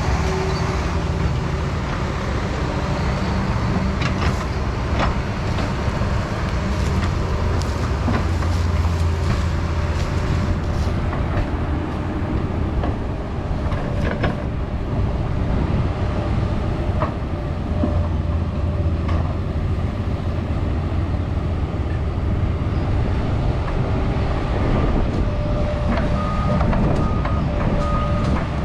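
Diesel engine of a Doosan 350 excavator working under load, revving up and easing off twice, with scattered clanks of the bucket and machine. A repeated electronic beep starts near the end.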